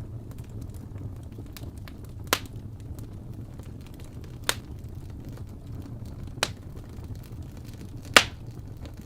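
Fire burning in a fireplace: a low steady rumble with small crackles, and four loud sharp pops about two seconds apart, the last one the loudest.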